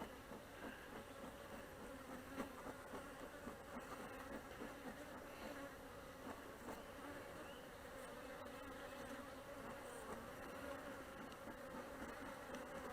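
Honeybees buzzing around an open hive: a steady, faint hum of many bees in flight, with a few light taps.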